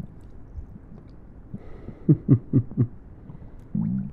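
Stomach gurgling: a run of four quick gurgles that slide in pitch about two seconds in, then a short low gurgle near the end, over a faint steady hiss.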